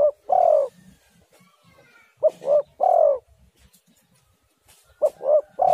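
Spotted dove cooing its three-note call, two short notes and a longer falling one, repeated about every two and a half to three seconds: a phrase right at the start, one in the middle and one at the end.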